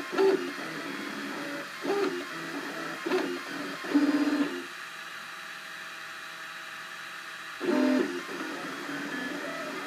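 Cubify 3D printer's stepper motors driving the print head mid-print: short pitched whirs about every second, then a steady multi-tone whine for about three seconds before another quick whir.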